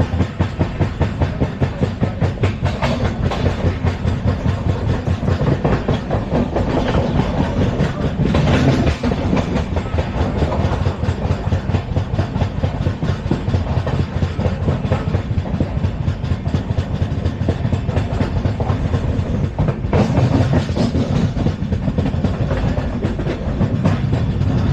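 LHB passenger coaches of an Indian Railways express running at speed: a fast, even, pulsing wheel-and-rail rumble, with a couple of louder clacks, one about eight seconds in and one near twenty seconds.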